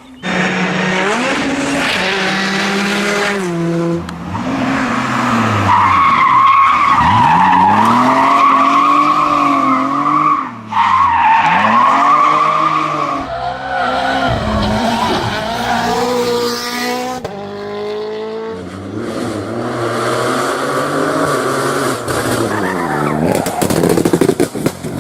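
Rally car engines at full throttle, rising through gear changes and dropping on lifts, over several clips cut together.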